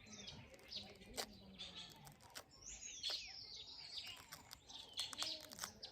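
Songbirds chirping and calling, with quick high notes and a few falling whistled glides, among scattered faint clicks.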